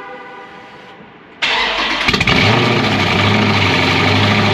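Dodge Scat Pack's 392 HEMI V8 cold-starting inside a garage: about a second and a half in, the engine cranks and catches with a sudden loud flare, then settles into a steady idle.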